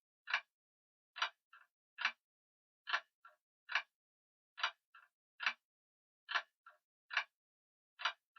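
Grandfather clock ticking steadily, just over one sharp tick a second, with a fainter click following every other tick.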